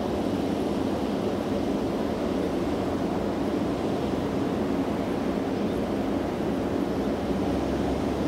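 An approaching electric multiple unit train running on the track, with wind on the microphone. The noise stays steady and low throughout.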